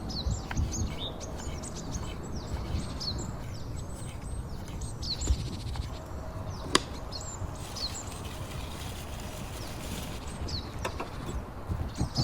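Small birds calling again and again with short chirps that drop in pitch, over a low steady rumble of wind on the microphone. A couple of sharp clicks stand out about five and seven seconds in.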